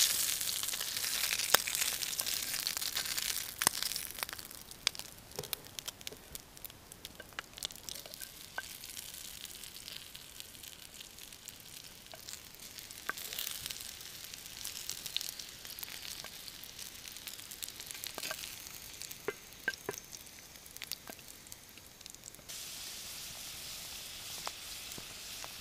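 Food sizzling in a frying pan over an open wood fire, first a burger patty and then sliced potatoes, with a steady hiss broken by many sharp pops and crackles. Near the end the sizzle turns to a steadier, even hiss.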